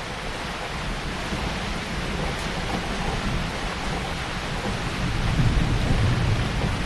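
Heavy rain pouring steadily, with a low rumble of thunder building and growing louder from about five seconds in.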